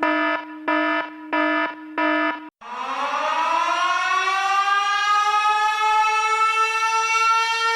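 Four short buzzing alarm tones, then a siren winding up, its pitch rising and settling into a steady wail.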